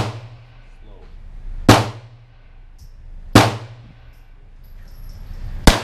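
Pistol shots on an indoor concrete range: three slow, deliberate single shots about two seconds apart, each followed by a short echoing tail, with the tail of another shot at the very start.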